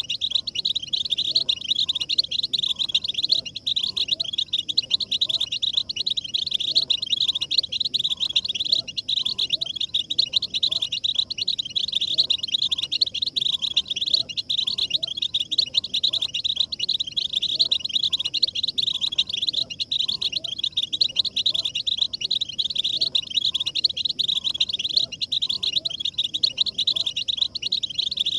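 European goldfinches twittering and chattering in a dense, unbroken chorus. It is a lure recording of mating and readiness calls used to stimulate male goldfinches into singing.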